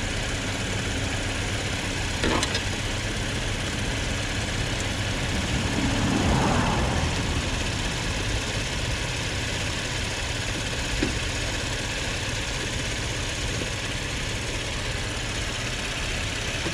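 A car engine idling steadily, with a sharp click about two seconds in and a brief louder swell of noise around six seconds in.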